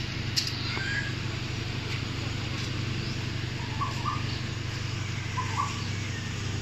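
A few short bird chirps, about four and five and a half seconds in, over a steady low hum.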